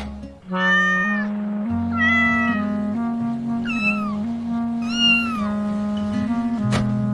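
A cat meowing four times, each meow short and high and falling in pitch at its end, over soft background music with long held notes.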